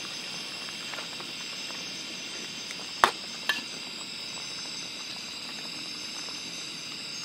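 A pot of food simmering over the camp fire: a steady bubbling hiss. There are two sharp clicks about three seconds in.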